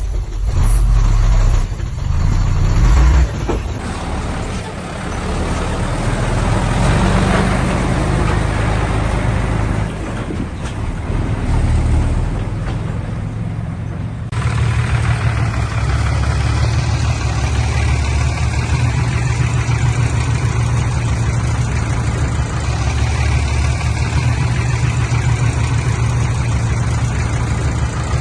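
Heavy diesel earthmoving machinery running, a deep steady engine rumble, with an abrupt change in the engine sound about halfway through.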